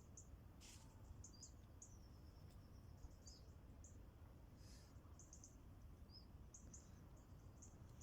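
Faint, high-pitched bird chirps, short and scattered, with one brief gliding call, over a low steady rumble.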